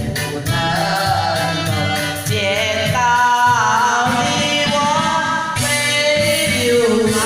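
A voice singing a slow melody over backing music, holding and bending long notes above a steady accompaniment.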